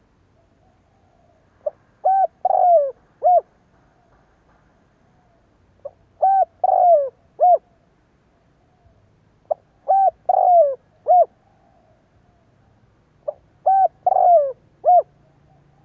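Spotted dove cooing: four repeated phrases, one about every four seconds, each a short soft note followed by two quick coos, a longer falling coo and a final coo.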